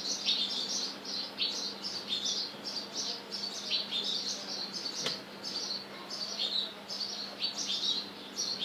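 Birds chirping continuously, a rapid run of short high chirps several times a second. A single sharp click about five seconds in.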